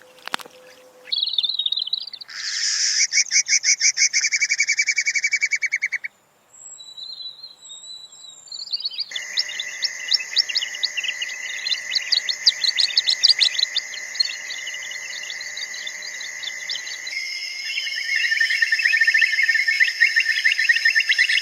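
High-pitched bird chirping and rapid trills, in several stretches that change abruptly from one to the next, with a brief near-silent gap about six seconds in.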